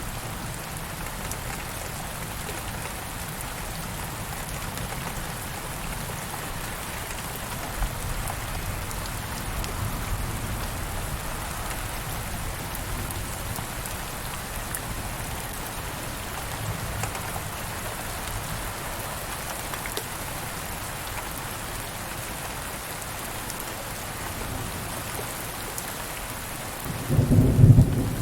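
Steady rain falling on a surface, with soft low rolls of thunder in the background. Near the end a louder, deeper thunder rumble starts.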